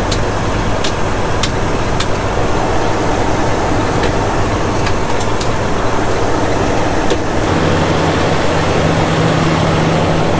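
Heavy diesel truck engine running steadily, with a few sharp clicks over the first seven seconds. About seven and a half seconds in, the engine's hum changes pitch.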